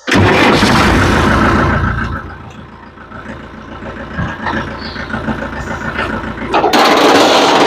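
Tractor engine running, loud at first, easing off after about two seconds and then growing loud again near the end.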